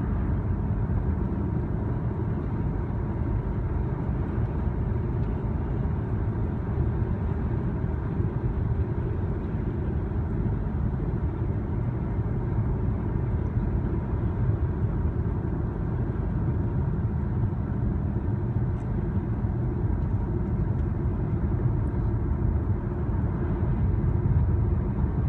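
Steady road and engine rumble inside a moving car's cabin, even and unchanging.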